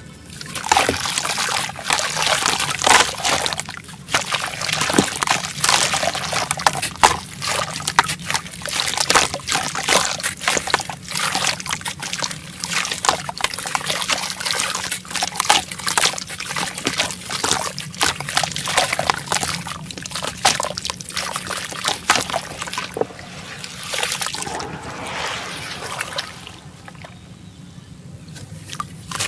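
Sand-and-cement block crumbling apart in water: a dense crackling fizz with trickling and sloshing, easing off for a couple of seconds near the end.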